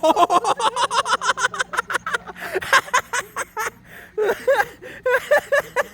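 A person laughing hard in fast, short bursts, easing off about halfway through and picking up again near the end.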